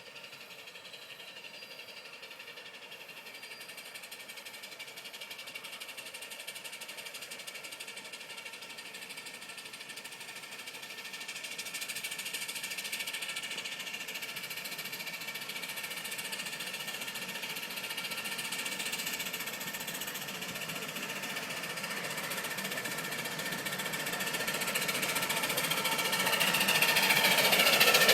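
A 12-inch gauge steam locomotive running on its trial, its fast, even beat growing steadily louder as it draws closer, loudest near the end.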